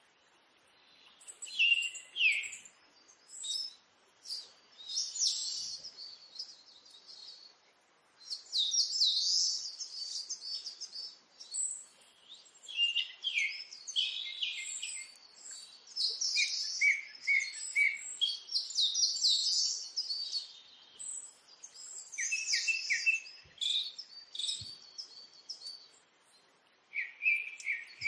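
Small birds chirping and twittering in quick, varied phrases, coming in bursts with short pauses between them.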